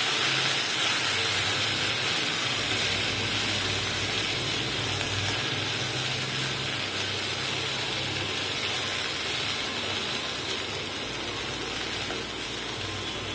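Vermicelli, onion, tomato and peas sizzling in ghee in a steel kadhai while being stirred with a wooden spatula: a steady frying hiss that slowly fades, with a low hum underneath.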